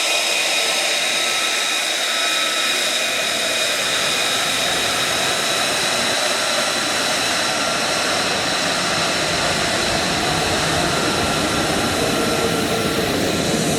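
F-35 fighter's jet engine running steadily: a loud rushing sound with high, steady whining tones on top.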